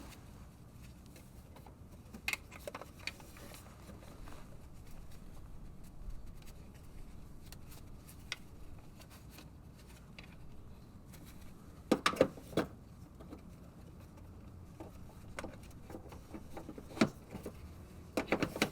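Scattered metallic clicks and clinks of hand tools against rear brake and hub parts, with a louder cluster of knocks about twelve seconds in and a few more near the end.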